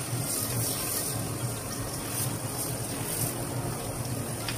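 Chopped onion and garlic sizzling in oil in a wok as a spatula stirs them, with a low steady hum underneath.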